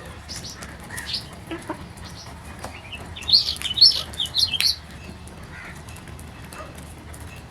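Birds chirping: a quick run of loud, high chirps about three seconds in, with fainter chirps around it.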